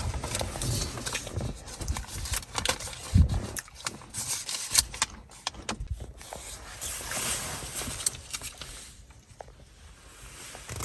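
Handling noise from a clip-on accessory being fitted to a car air vent: a run of irregular light plastic clicks and knocks with rustling, quieter near the end.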